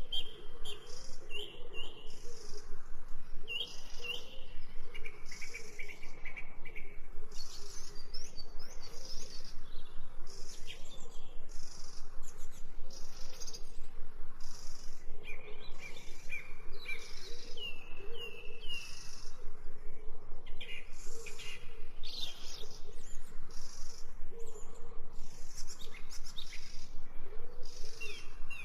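Several birds chirping and singing, with short repeated calls, some gliding in pitch, over a steady lower wavering sound.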